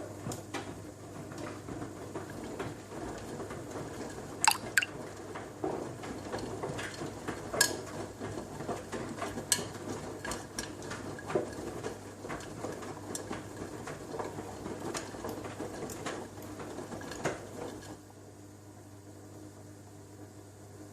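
Front-loading washing machine tumbling a wash load: water sloshing in the drum with irregular clicks and knocks from the clothes, over a steady hum. The sloshing and clicks stop about three seconds before the end, leaving only the hum.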